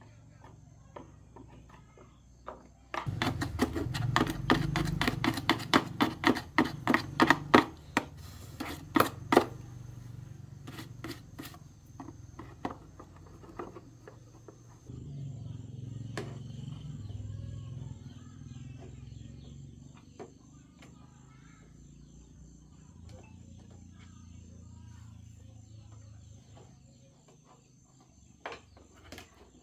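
Rapid run of sharp metal knocks, several a second and getting louder, like a hammer striking metal for several seconds, then scattered taps and clicks of hand tools over a low hum.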